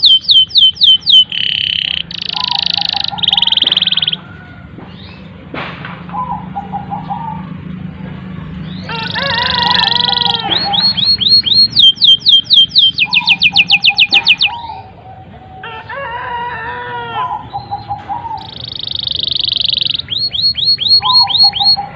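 Domestic canary singing a long, varied song. It runs through fast trills of rapidly repeated down-slurred notes, dense buzzy rolls and lower chattering phrases, with only short pauses between them.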